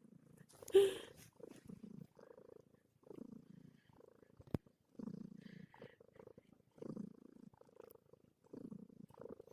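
Calico cat purring close by, in rough pulses about a second apart that rise and fall with its breathing, while it kneads. There is a brief louder voice-like sound just under a second in, and a single sharp click about halfway through.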